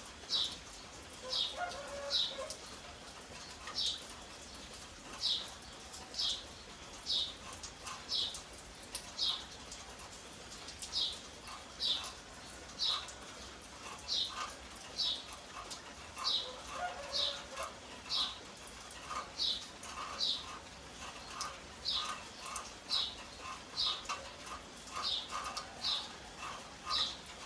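A bird calling over and over: short high notes, single or paired, about once a second, with softer chirps lower down.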